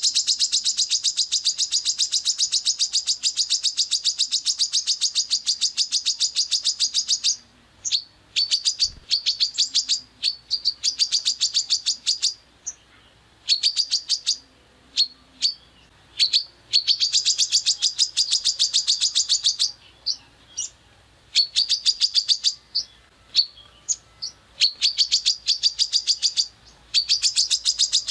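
A songbird's rough, rapid 'tembakan' song, fast trains of sharp repeated high notes: one long train lasting about seven seconds, then shorter bursts of one to three seconds with brief pauses between them. This is masteran material, song played to cage birds for them to copy.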